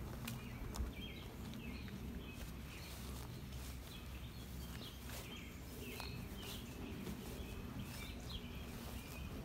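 Small birds chirping over and over, short high calls, above a steady low outdoor rumble, with a few sharp clicks.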